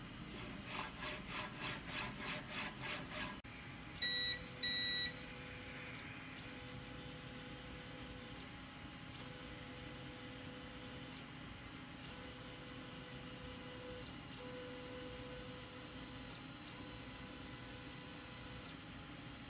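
A D100 3D printer's stepper motors whining in steady tones, running in stretches of about two seconds with short pauses between, as the printer moves on its freshly readjusted carriage. Two short beeps come about four seconds in, just before the motors start. Before that there is a rhythmic scraping, about three strokes a second, for a few seconds.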